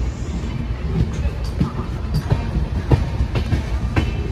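Passenger train coach running on the rails: a steady low rumble with the wheels clacking over rail joints, sharp knocks standing out about two, three and four seconds in.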